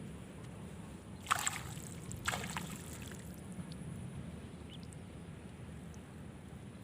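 Two short splashes in the water, about a second apart, over a steady low rumble.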